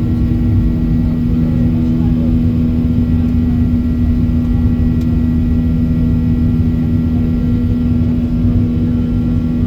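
Steady in-cabin drone of a Boeing 737-800 in flight: its CFM56-7B turbofan engines and the airflow make a deep rumble with a few steady hum tones.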